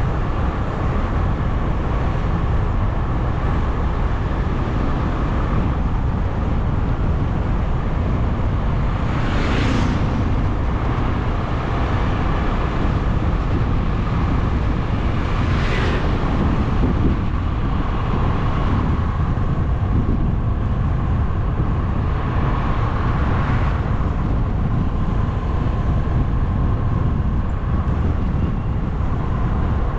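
Steady wind and road rumble from riding a bike, with two brief swishes a third of the way in and about halfway through, like vehicles passing close by.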